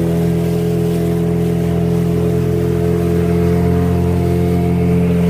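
Motor vehicle engine running at a steady speed, a constant low hum with an even drone.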